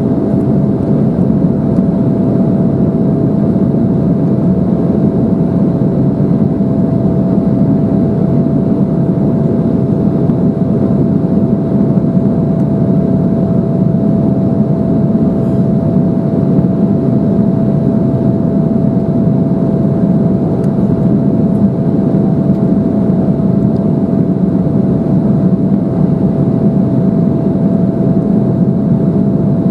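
Steady cabin noise inside an Embraer 175 airliner in flight: airflow rush and the drone of its CF34 turbofan engines, with a steady hum in the middle of the range.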